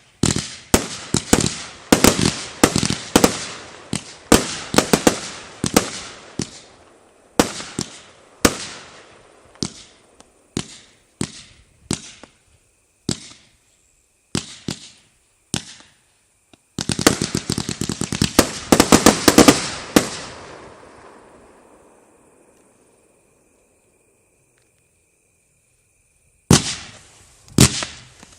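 Fireworks bursting in the sky: a rapid string of sharp bangs, then bangs spaced further apart, then a dense barrage about 17 seconds in that dies away. After a few seconds of silence, bangs start again near the end.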